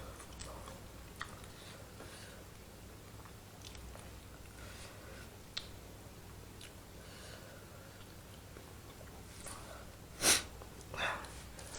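Close-up chewing of instant curry noodles in soup, with soft scattered mouth clicks. A short loud noise comes about ten seconds in, followed by a smaller one.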